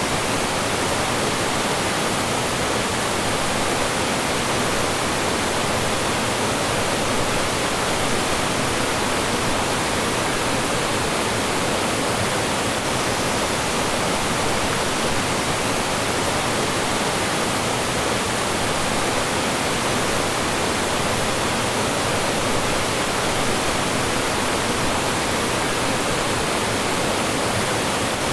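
Mountain stream rushing over rocks and small falls: a steady, dense rush of water with no pauses or changes.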